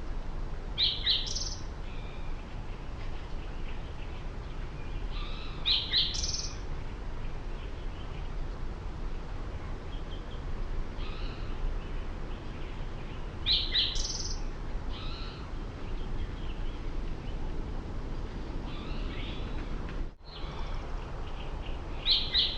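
Wild birds calling around a bird feeder: short, high chirps come in clusters every several seconds, with fainter calls between them, over a steady low background rumble.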